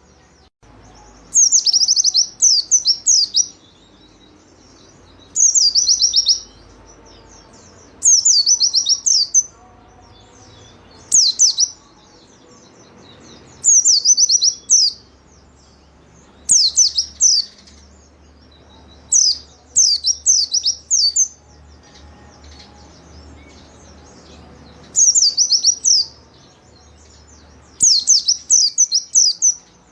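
White-eye (pleci) singing in full 'gacor' song: about nine quick, high-pitched chattering phrases, each a fast run of sweeping notes, repeated every two to three seconds with short pauses between.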